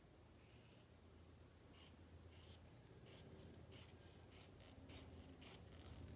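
Faint series of short, light scraping strokes, irregular, about two a second.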